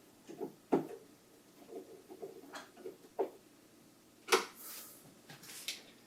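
Plastic knocks and clunks from the housing of an Epson WF-7720 inkjet printer being handled and set in place during reassembly: two sharp knocks within the first second, lighter taps a little later, and the loudest clunk a little past four seconds, followed by a short rustling scrape.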